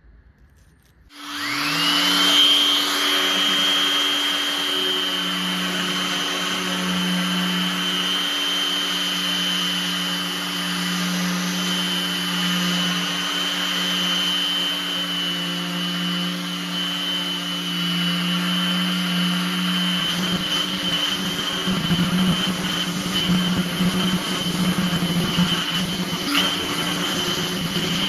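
An electric power tool's motor switches on about a second in, its whine rising quickly to speed, then running steadily with a high whine and a low hum. From about two-thirds of the way through, a rougher, uneven rubbing noise joins the running.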